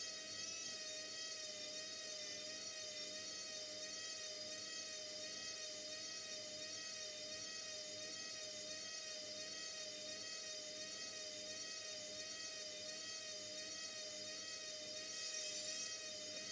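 Indesit 71252 washing machine's drum motor running at a steady speed, a high whine that wavers slightly up and down in an even, slow wobble over a low hum.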